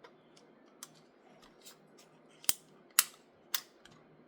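Scissors snipping through toy packaging: several separate sharp snips, the loudest two about halfway through.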